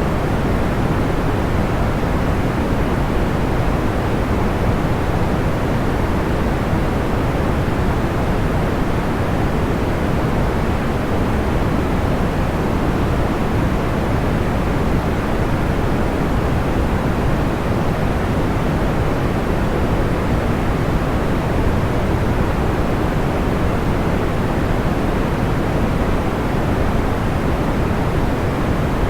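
Steady sleep white noise, shaped like pink noise with most of its weight in the low and middle range; no distinct crackles or pops stand out.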